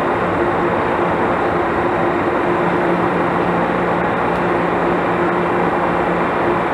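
Train running past: a loud, steady rumbling noise with an even engine drone underneath and no let-up.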